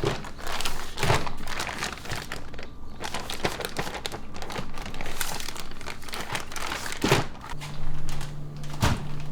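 Irregular crinkling and rustling with a few sharper snaps, as of something being crumpled or handled; a steady low hum comes in near the end.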